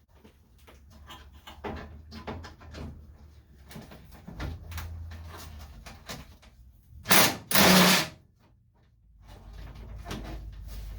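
Clicks and knocks of hand work on the bumper fittings, then two short, loud bursts from a battery-powered power tool with a socket extension, about seven seconds in, as it runs on a bumper fixing.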